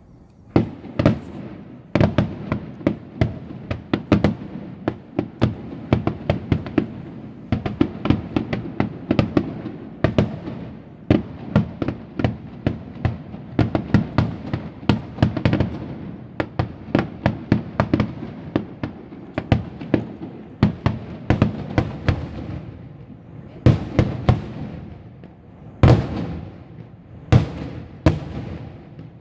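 Fireworks display: a rapid, dense barrage of shell bursts and cracking reports, several bangs a second, thinning to a few separate loud booms near the end.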